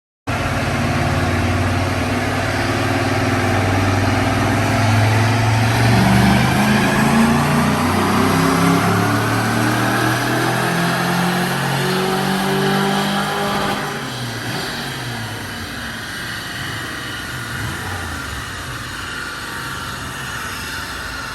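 GM L92 6.2-litre V8 in a Land Cruiser 100 pulling hard under throttle, its pitch climbing steadily for about thirteen seconds, then dropping back and running quieter as the throttle comes off.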